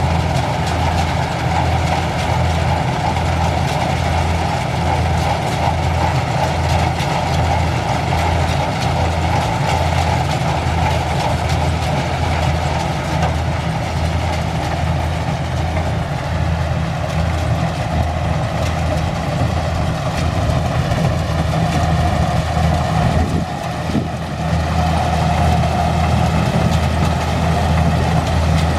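Kubota rice combine harvester's engine running steadily with a throbbing low drone, dipping briefly about three-quarters of the way through.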